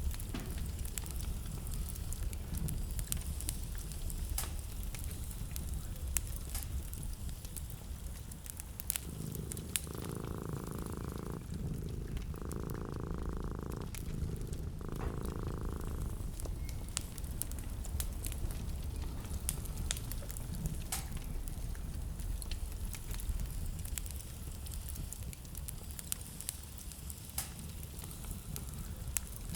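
Wood fire crackling and popping in a fireplace, with sharp snaps over a low steady rumble. From about nine seconds in, a softer, steadier sound comes and goes three times over roughly seven seconds.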